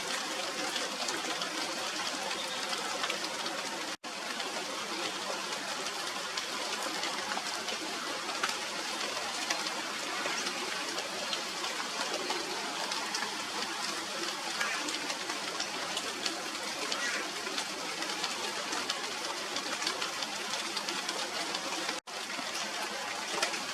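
Steady rain falling, a dense patter of drops on the leaves of a tree, with two very brief breaks in the sound, about four seconds in and near the end.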